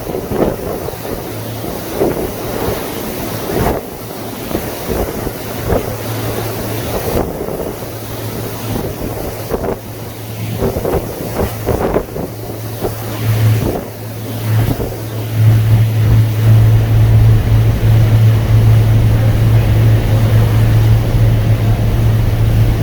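Wind gusting on the microphone over the water, with a boat engine's steady low hum underneath that grows much louder about two-thirds of the way through.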